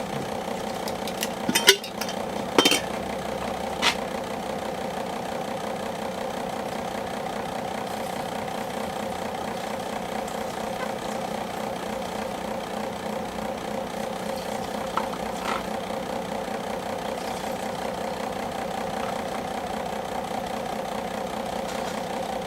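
Electric fan running with a steady hum. A few sharp knocks and clicks in the first few seconds, from a plastic bottle used as a funnel being handled against the chainsaw.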